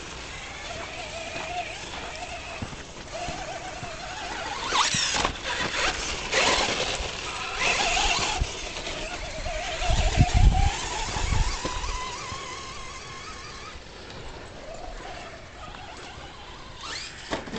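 Whine of RC trucks' electric motors and gear drive, rising and falling in pitch with the throttle, with bursts of tyre noise on dirt. Low rumbles come about ten seconds in.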